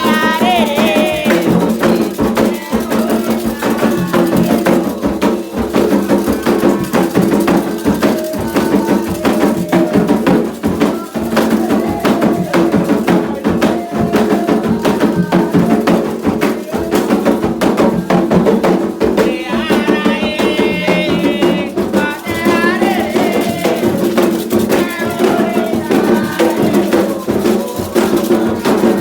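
Afro-Brazilian ritual music for Xangô: voices singing over steadily shaken rattles and percussion, the singing strongest near the start and again about two-thirds of the way through.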